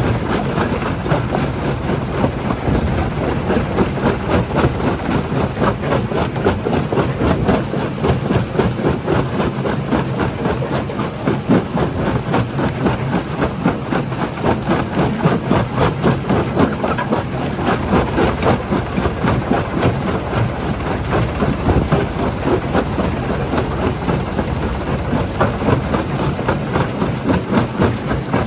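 Primary jaw crusher at work: a steady engine drone under a dense, continuous clatter of rock knocking and cracking as stone is crushed.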